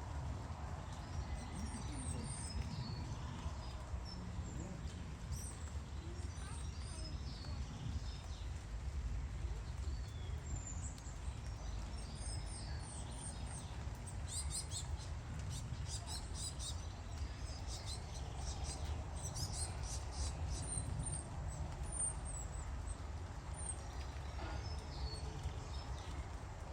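Tits calling with short, high, thin chirps scattered throughout, with two runs of rapid repeated calls in the middle, over a steady low rumble.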